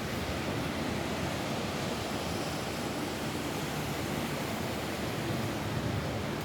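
Steady rain falling on a roof, an even, unbroken rush with no single drops or other sounds standing out.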